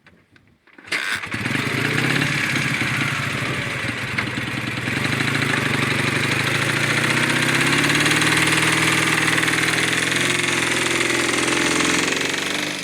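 The homemade quad's Dnepr MT-10-36 flat-twin engine running. It comes in abruptly about a second in, its pitch shifting slightly, and dies away near the end.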